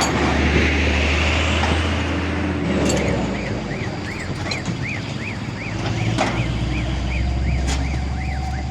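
Heavy truck engine running steadily, with road noise. From about three seconds in, a short high chirp repeats two or three times a second.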